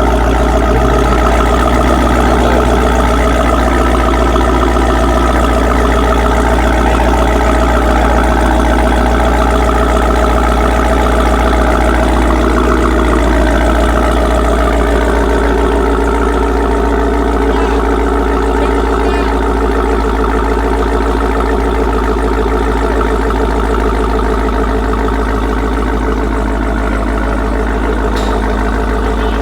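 Supercharged 6.2-litre V8 of a 2021 Dodge Durango SRT Hellcat idling through an aftermarket exhaust, a steady rumble whose pitch wavers slightly in the first half and then holds even.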